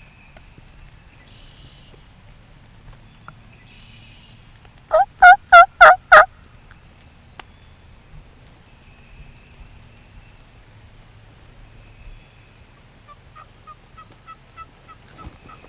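A wild turkey tom gobbles once, loud and close: a rapid rattle of about five pulses lasting just over a second. Near the end comes a quieter run of short, evenly spaced notes.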